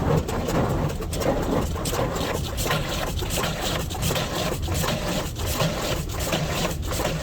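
Car-wash wheel scrubbers working at the wheels under water spray, heard from inside the car: a steady rushing wash with a regular swish about every two-thirds of a second.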